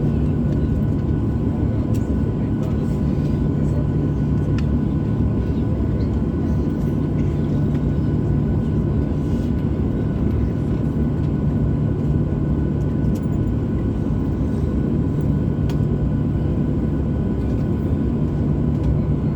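Cabin noise inside a Boeing 737-800 in flight: a steady, loud roar of airflow and its CFM56-7B turbofan engines, with a faint steady whine running through it.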